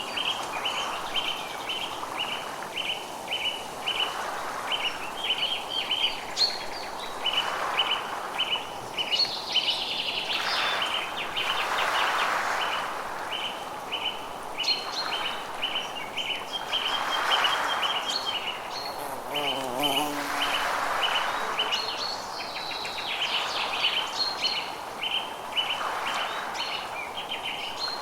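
Forest ambience: a bird repeats a short high chirp evenly, about two to three times a second, while other birds call now and then. Beneath them a soft rushing noise swells and fades every few seconds.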